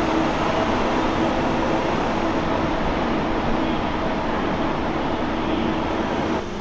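Steady hum and rumble of trains standing under a large station train shed, with a held electrical-machinery tone from the standing locomotives. It drops suddenly a little before the end.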